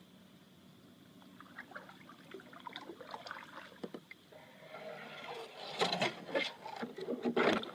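Kayak paddle splashing and dripping in water, with irregular knocks and scrapes against the kayak. It starts faint and grows louder and busier from about five seconds in.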